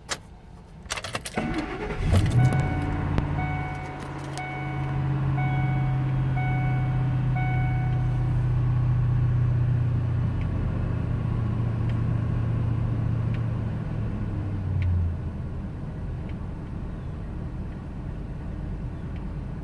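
A 2000 Ford Expedition's 5.4-litre V8 starts about two seconds in, after a jangle of keys, and then idles roughly. A dashboard warning chime beeps repeatedly for the first several seconds, and the engine's note shifts about fifteen seconds in.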